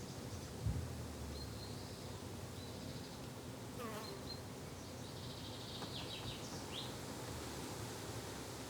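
Steady buzzing of insects such as bees and flies in a garden, with a few short bird chirps and a soft thump less than a second in.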